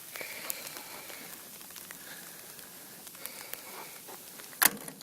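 Sleet falling steadily, a soft even patter, with one sharp click near the end.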